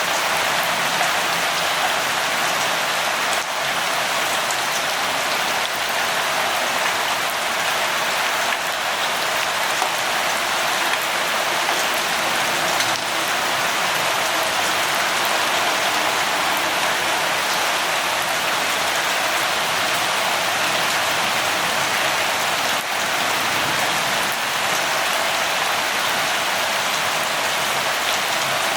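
Steady rainfall, a dense even hiss of drops pattering on a surface.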